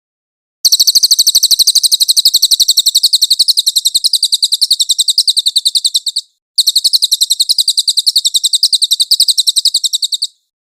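Cililin bird song, a rapid high-pitched trill of evenly repeated notes. It comes as two long runs, the first about five and a half seconds long, then a short break and a second run of nearly four seconds.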